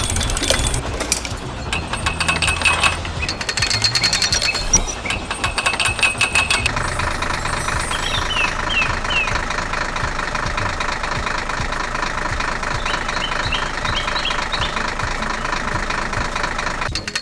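Heavy diesel quarry machinery running, with a fast, even knocking rattle; the sound changes abruptly a couple of times. A few short high squeaks come in the later part.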